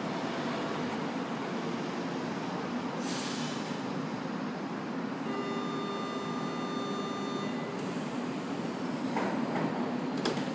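São Paulo Metro Line 3 train noise at a station platform: a steady rumble with a high, steady tone about five seconds in that holds for roughly two and a half seconds. A few sharp clicks come near the end.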